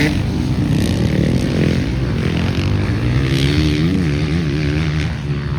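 Motocross motorcycles racing, their engines revving with the pitch rising and falling repeatedly.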